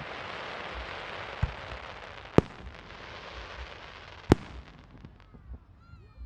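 Fireworks going off: a dense crackling hiss over the first two seconds or so, then single sharp bangs about two seconds apart, the last one about four seconds in.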